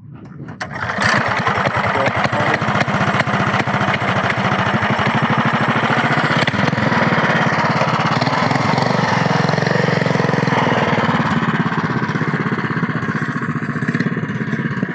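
A minibike's small engine picks up about a second in and then runs hard at steady high revs, a fast even pulsing.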